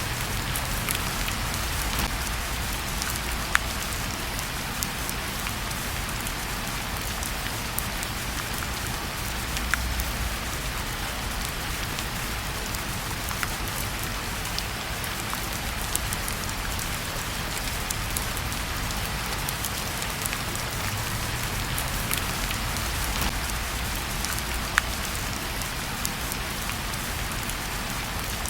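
Steady rain falling, with a wood fire crackling in a fireplace: scattered sharp pops and ticks over the even hiss of the rain.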